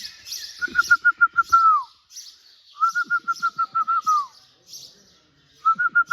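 Birds calling in the cave. A rapid run of about eight even notes ending in a falling slur comes three times, with higher chirping from other birds between.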